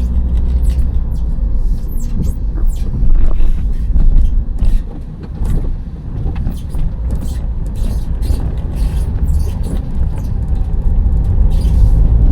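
Loaded van on the move: a steady low engine and road rumble, with scattered light clicks and rattles.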